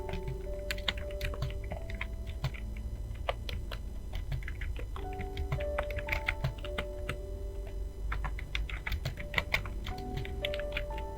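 Typing on a computer keyboard: a quick, irregular run of key clicks over background music with a short melody that repeats about every five seconds.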